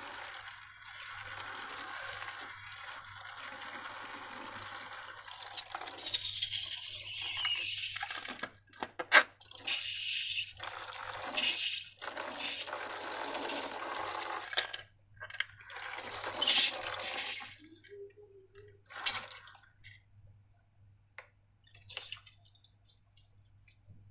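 Wet, sticky slime and liquid slime ingredients being poured, stirred and squelched: a steady wet hiss for the first few seconds, then irregular squelches and splats, sparser toward the end.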